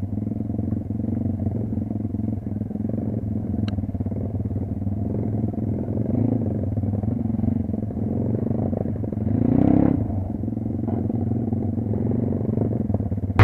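Kayo dirt bike's engine running steadily under way, with a brief rise in revs about ten seconds in.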